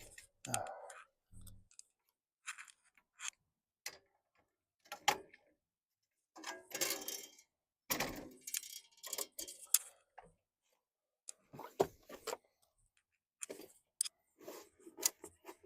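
Manual wheelchair being handled and loaded into a truck: scattered clicks, knocks and rustling, each short, with pauses between them.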